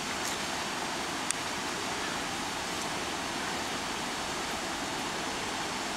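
Waterfall rushing, a steady, even roar of falling water, with a brief click about a second in.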